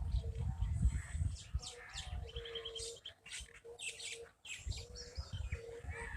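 Birds chirping, with many short high calls scattered throughout, over a low rumble.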